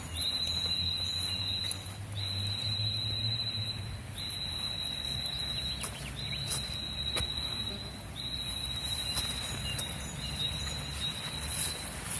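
A high-pitched trill from a calling animal, repeated in phrases of about two seconds with short breaks between them, over a low outdoor rumble.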